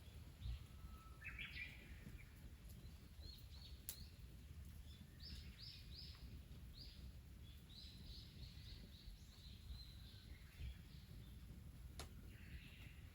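Faint birdsong over a low outdoor background rumble: a short trill, then a run of quick, high, downward-sliding notes, with a few sharp clicks along the way.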